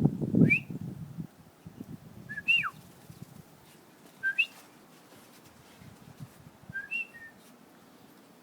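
A short whistled call, a quick rise then fall in pitch, repeated four times about two seconds apart. A low muffled noise fills the first second.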